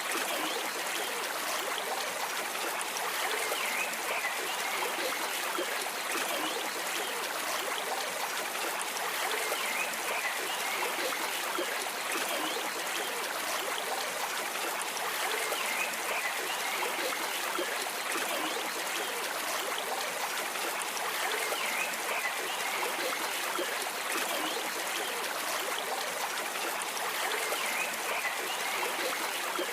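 Stream water running steadily, a continuous trickling and rushing flow.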